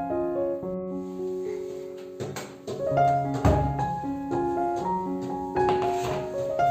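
Gentle solo piano background music, with a few knocks and a loud low thump about halfway through.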